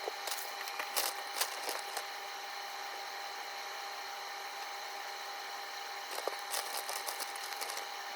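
Scattered light clicks and knocks, a cluster in the first two seconds and another near the end, over a steady electrical hum.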